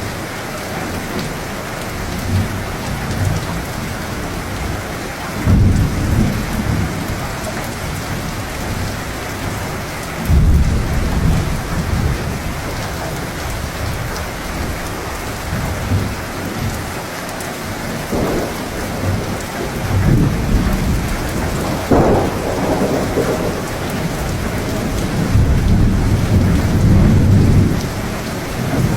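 Steady rain with thunder rumbling again and again: low rolls about five and ten seconds in, a sharper clap a little past the middle, and a long rumble building near the end.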